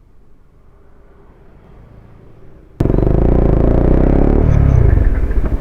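Faint low hum, then a sudden jump about three seconds in to the loud exhaust of a single-cylinder motorcycle fitted with an aftermarket Leo Vince exhaust, running under way; its pitch drops near the end and settles into an even pulsing beat.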